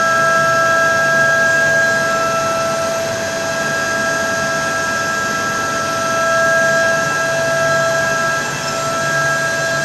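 Dual-spindle jewelry CNC machine running, its spindle turned up to high speed and giving a steady high whine over a low hum.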